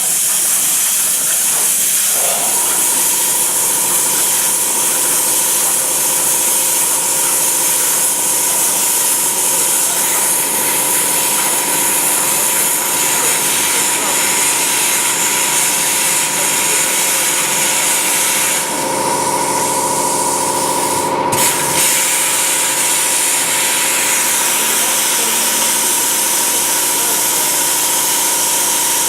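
CNC plasma cutting table cutting metal: the loud, steady hiss of the plasma arc, with a steady high-pitched whine joining about two seconds in. About two-thirds of the way through, the hiss drops for a couple of seconds and comes back with a sharp crack.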